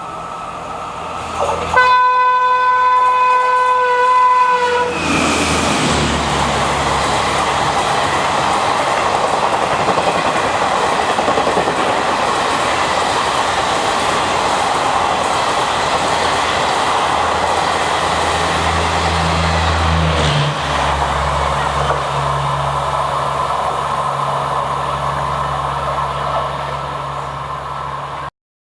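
A WAP-5 electric locomotive sounds one steady horn blast lasting about three seconds. An express train then passes at speed, with loud wheel and track noise and clicking over the rail joints, until the sound cuts off abruptly near the end.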